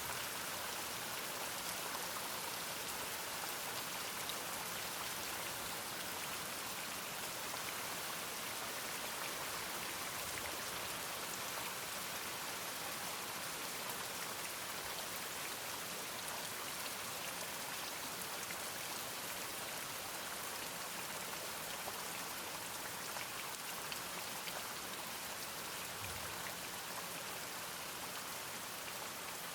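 Steady rain falling, an even hiss of drops with no thunder or barking standing out.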